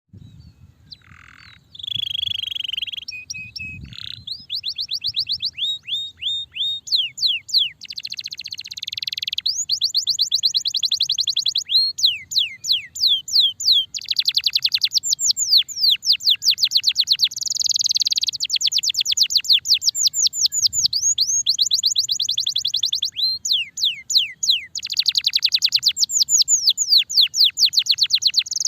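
Domestic canary singing a long, continuous song of rapid trills, each a fast run of downward-sweeping high notes, with only brief pauses between phrases. After a few faint notes, the song starts in earnest about two seconds in.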